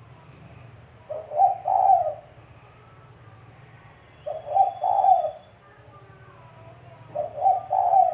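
Spotted dove (tekukur) cooing: three phrases about three seconds apart, each a short note followed by a longer double note.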